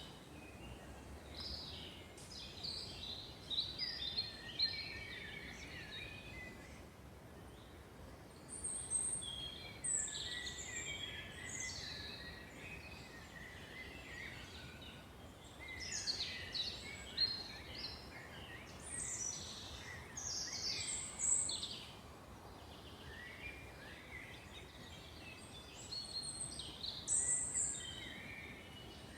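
Songbirds singing in a forest, short bright phrases of song coming in bouts every few seconds over a faint steady hiss.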